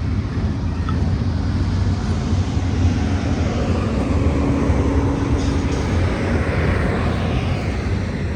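Union Pacific intermodal freight train's cars rolling past close by: a loud, steady rumble of steel wheels on the rails.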